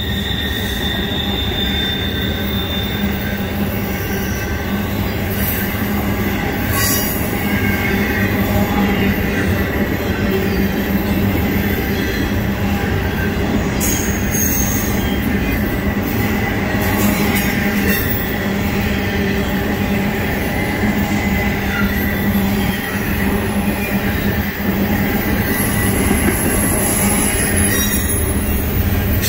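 Double-stack intermodal freight cars rolling past close by: a steady rumble of steel wheels on the rails under a thin steady whine, with a few brief high screeches from the wheels.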